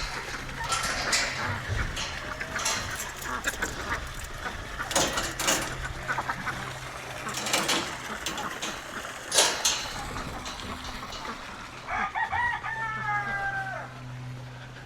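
A rooster crows once near the end, one drawn-out call that falls slightly in pitch. Before it, chickens cluck and there are scattered sharp knocks and clicks.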